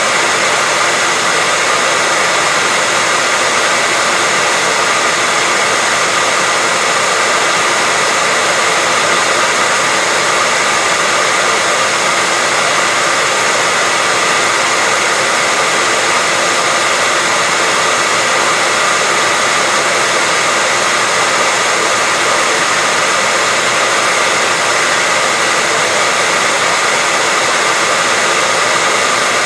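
Hair dryer running continuously: a steady, loud blowing hiss with a constant whine from its motor and fan, unchanging throughout.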